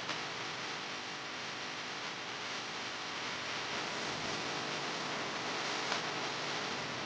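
Steady hiss, with a couple of faint clicks, one just after the start and one near the end.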